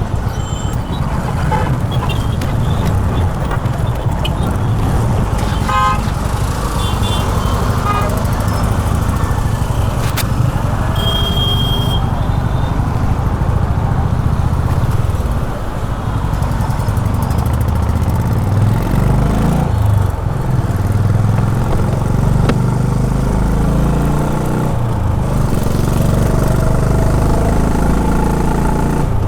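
Honda H'ness CB350's single-cylinder engine running under way in city traffic, its revs rising and falling. A vehicle horn honks briefly about eleven seconds in.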